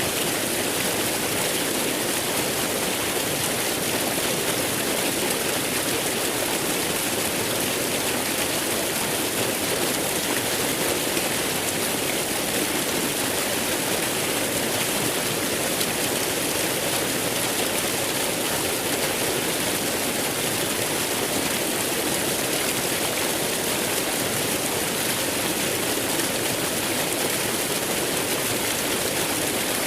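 Waterfall rushing steadily, a constant hiss of falling water with no breaks.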